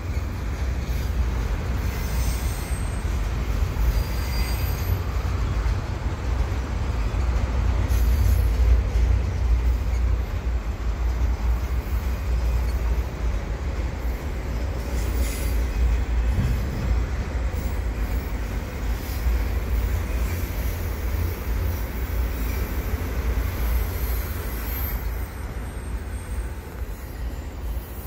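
Freight train's double-stack container well cars rolling past: a steady low rumble of steel wheels on rail, with faint high-pitched wheel squeal now and then.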